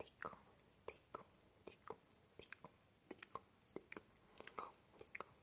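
ASMR mouth sounds close to the microphone: an irregular run of soft tongue clicks and lip smacks, several a second.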